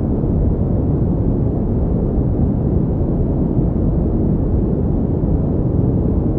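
Pink noise: a steady, unchanging hiss with its weight in the low end, fading off toward the high pitches.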